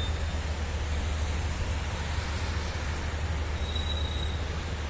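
Steady low rumble of road traffic with an even hiss over it.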